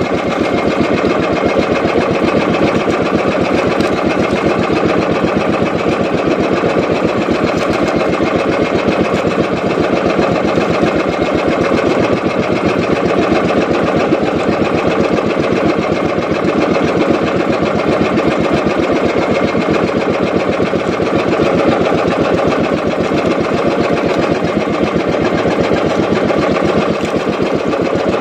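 A small fishing boat's engine running steadily at a constant speed with a fast, even chugging rhythm.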